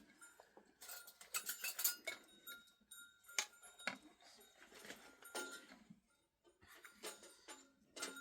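Metal utensils clinking and scraping against dishes, with short ringing tones after some of the strikes.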